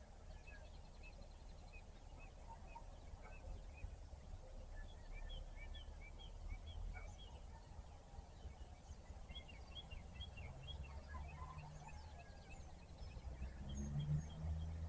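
Faint chorus of small songbirds chirping, many short, quickly repeated notes, over a steady low rumble. Near the end a low hum swells briefly.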